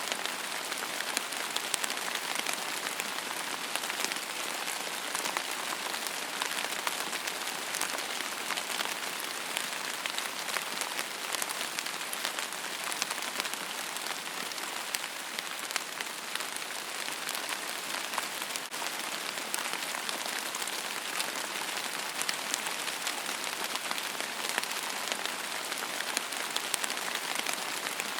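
Steady rain falling on a surface: a dense, even hiss sprinkled with many small drop ticks.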